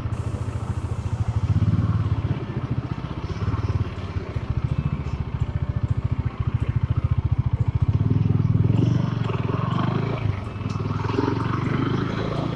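Bajaj Dominar 400's 373 cc liquid-cooled single-cylinder engine running at low revs with a steady pulsing exhaust beat, its note swelling a couple of times.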